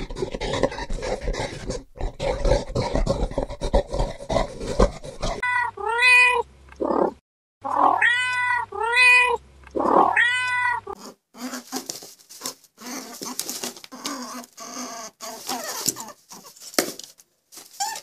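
Dense crunching and crackling of a gorilla chewing food for about five seconds, then a cat meowing repeatedly, about seven calls, each rising and falling. After the meows a softer rustling hiss with scattered clicks follows.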